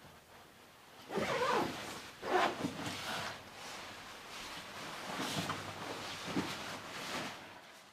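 Irregular rustling and scraping sounds, five or six in a row, like material being handled or moved.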